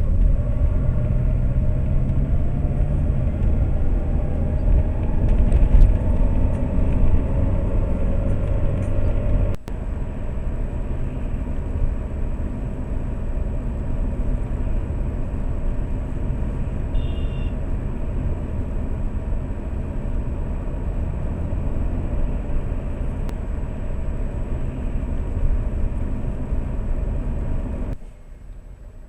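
A Lada Priora driving, its engine and road noise picked up by a dashcam inside the car. The engine note rises as the car accelerates in the first few seconds, the level drops suddenly about ten seconds in, and then the car runs on steadily.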